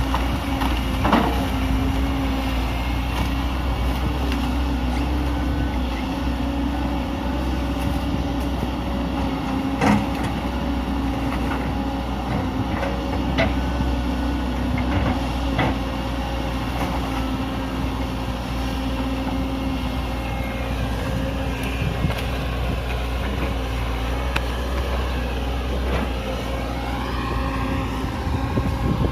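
Hydraulic excavator's diesel engine running steadily under work, with a few sharp knocks from the machine and shifts in engine pitch near the end.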